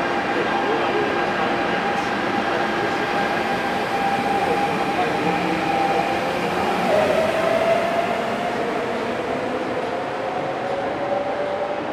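MTR Q-train electric multiple unit moving through the station, a steady running noise with several held whining tones. About seven seconds in, one of the tones dips and then climbs slowly in pitch.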